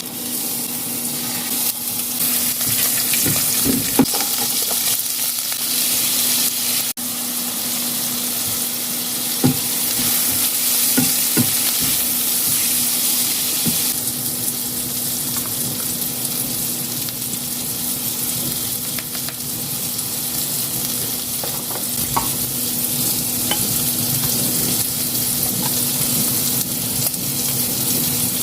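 Zucchini and shrimp sizzling as they fry in a pan, a steady loud hiss, with a few clicks of a utensil against the pan as they are stirred.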